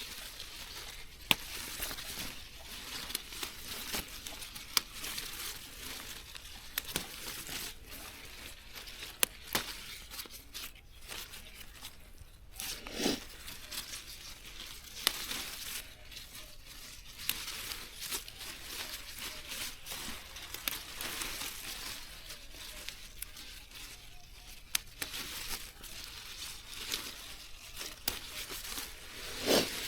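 Rustling and crinkling of something being handled, broken by frequent sharp clicks and snaps, with a louder burst about halfway through and another near the end.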